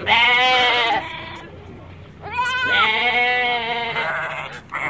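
Goats bleating: a loud wavering bleat about a second long, then a longer one of about two seconds starting near halfway, with another beginning right at the end.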